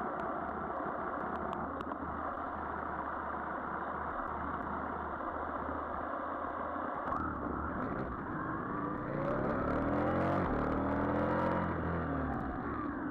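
Motorcycle engine running under a steady haze of road and wind noise; about nine seconds in, an engine revs up, its pitch rising over about three seconds before settling.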